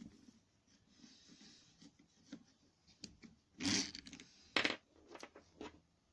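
Tools and small parts handled on a workbench while a hedge trimmer's carburettor is being taken off: scattered clicks and knocks, with a louder clatter nearly four seconds in and another about a second later.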